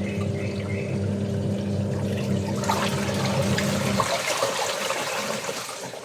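Water running and splashing, with the steady hum of an electric motor underneath that stops about four seconds in.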